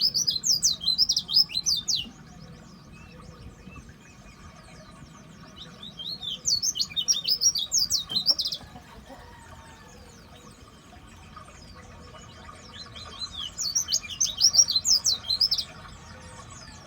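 White-eye (pleci) singing three quick bursts of high, twittering chirps, each about two seconds long, with pauses of several seconds between them.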